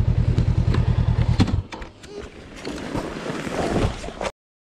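Motorcycle engine running with an even, fast throbbing beat, which drops away about a second and a half in, leaving quieter mixed sound until everything cuts off abruptly near the end.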